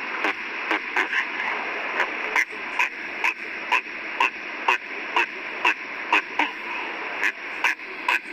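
An animal calling in short, sharp, repeated notes, about three a second, over a steady hiss.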